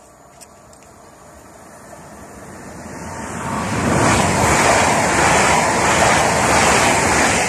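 A České dráhy passenger train running past over a level crossing: a rushing of wheels on the rails that swells over about two seconds and stays loud through the rest of the passage.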